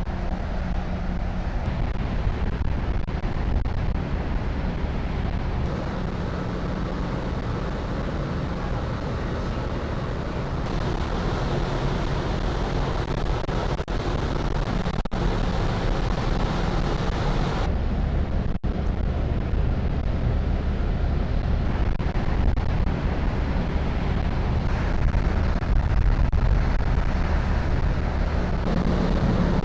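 Steady low drone of the car ferry Ferry Takachiho's engines, with wind buffeting the microphone and the rush of the sea. The mix shifts abruptly several times, as at cuts between shots.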